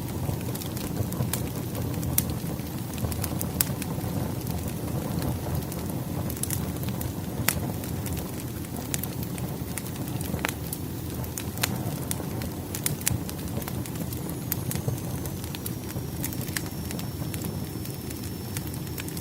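Firewood burning in a fireplace: a steady low rumble of flames with irregular crackles and pops, two sharper pops about a third and halfway through. A faint thin high whistle comes in about three-quarters of the way through and holds.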